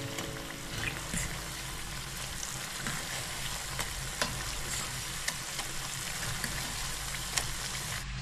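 Flour-coated chanterelle mushroom pieces frying in hot oil in a saucepan: a steady sizzle with scattered small crackling pops, while a fork stirs them.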